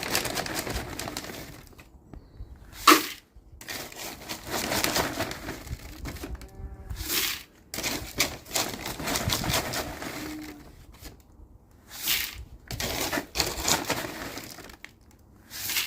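Dry feed pellets rattling and pouring into buckets, with rustling of the feed sacks, in irregular noisy stretches. A sharp knock about three seconds in is the loudest sound.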